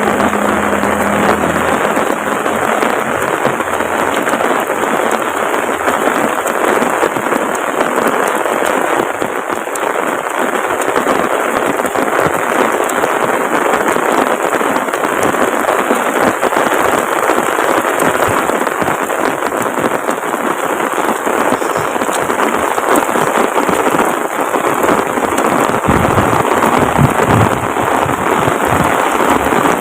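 Heavy tropical rain pouring down steadily, a dense patter of drops hitting surfaces. A brief low rumble comes near the end.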